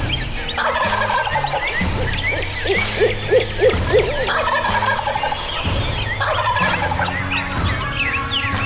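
Wild turkey gobbler gobbling, a loud rattling call about three seconds in, with songbirds chirping throughout.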